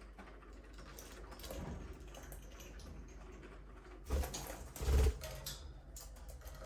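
Budgerigars moving about in a small aviary: faint scratching, pattering and small clicks, with two dull thumps about four and five seconds in.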